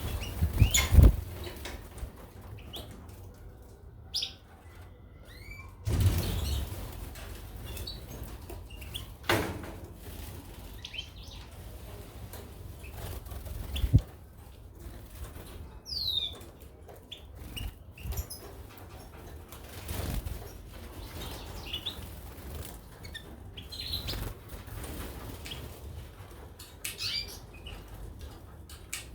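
Caged goldfinches and canaries fluttering and hopping about, with scattered knocks and short high chirps now and then.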